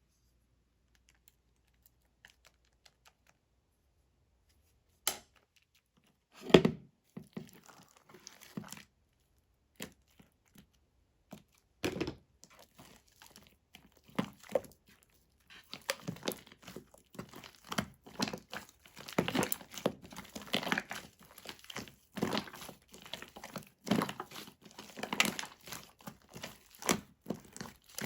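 Hands stretching, pressing and pulling apart fluffy shaving-foam slime, making crackling, tearing and squishing sounds. It starts sparse with a single thud a few seconds in, and the crackles grow dense and continuous in the second half.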